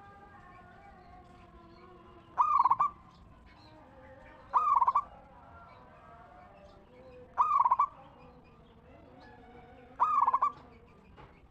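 Zebra dove (perkutut) cooing: four short, loud, rolling coos about two to three seconds apart, with fainter bird calls in between.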